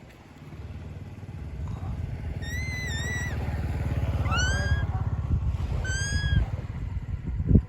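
A motorcycle engine running nearby, its low rhythmic drone building over the first few seconds and dropping away near the end. Over it, three short high meows, the first wavering, the second rising.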